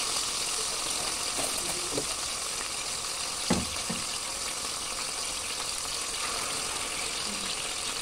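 Pork liver slices sizzling in hot oil in a stainless steel wok: a steady hiss and crackle. One short knock sounds about three and a half seconds in.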